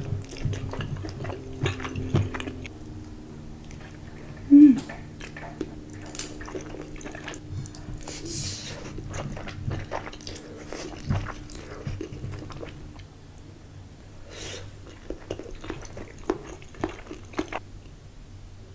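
Close-miked mukbang eating: repeated bites and chewing with some crunching. A short, loud pitched squeak comes about four and a half seconds in.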